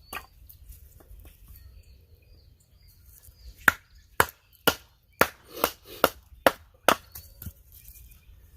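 Wood being chopped: a run of about nine sharp chopping strikes, roughly two a second, starting a few seconds in.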